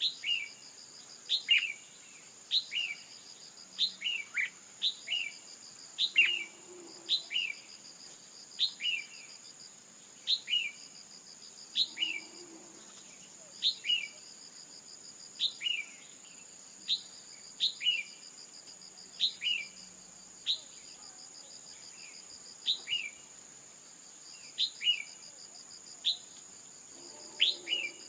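Red-whiskered bulbul calls in the female's voice: short sharp chirps, each falling in pitch, coming in quick pairs about once a second without a break. These are the calls used to provoke a male bulbul into singing. A steady high insect buzz runs behind them.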